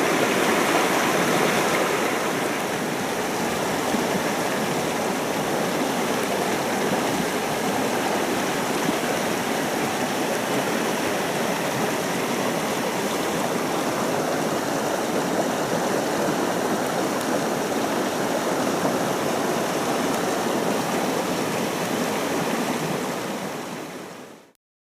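Mountain stream rushing over rocks: a steady, even rush of water that fades out near the end.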